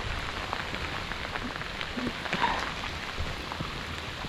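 Heavy rain falling steadily, a dense patter of many small drop ticks, with a brief louder noise about halfway through.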